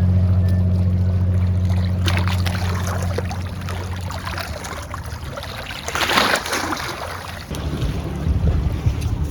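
Steady low drone of a boat engine fading away over the first few seconds, followed by bursts of wave and wind noise at the sea's edge.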